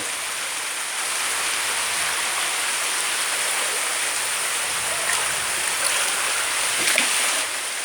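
Steady, even rushing of water, with no single sound standing out.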